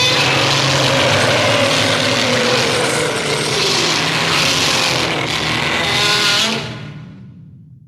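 Loud added sound effect: a harsh, rushing noise with tones sliding down in pitch. It cuts in suddenly and fades away over the last second or so.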